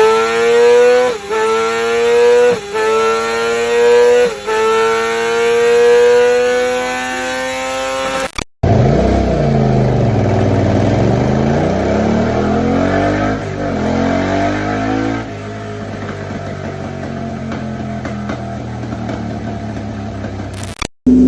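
Yamaha YZF-R series sport-bike exhaust. First the bike accelerates hard with a steadily climbing note, broken by three quick gear changes. After a sudden cut comes a different clip: a lower exhaust note whose revs rise and fall repeatedly.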